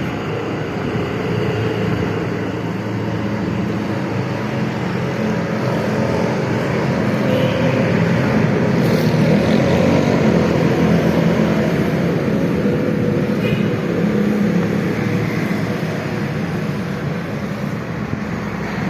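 A car's steady running and road noise, with a low hum that swells a little around the middle.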